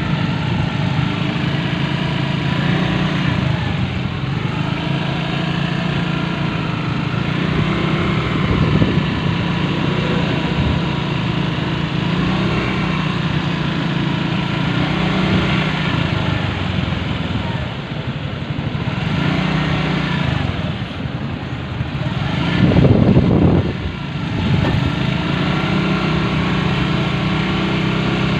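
Motorcycle engine running steadily while riding in city traffic, its pitch shifting a little with the throttle, with a louder surge about three quarters of the way through.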